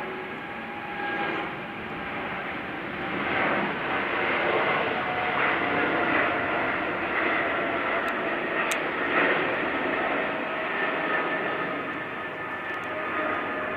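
Boeing 777-300ER's GE90-115B turbofan engines at takeoff thrust: a continuous jet rush with several steady whining tones, swelling to its loudest mid-way and easing slightly near the end.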